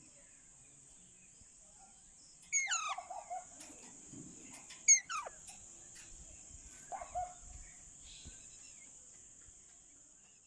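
A parrot calling three times, each call a short, sharp sweep that falls steeply in pitch, over a steady high-pitched hiss.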